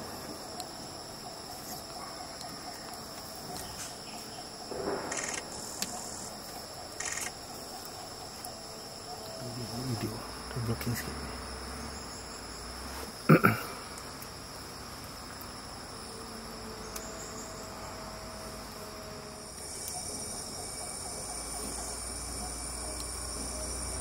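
Forest insects keep up a steady high-pitched drone. A few soft knocks sound over it, and a single sharp click about 13 seconds in is the loudest thing.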